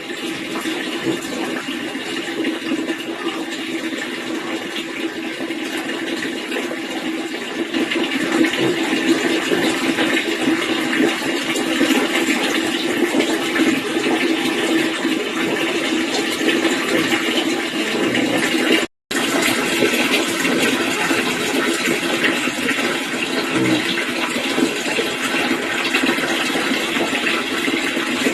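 Steady rushing of running water, broken by a split-second drop-out about two-thirds of the way through.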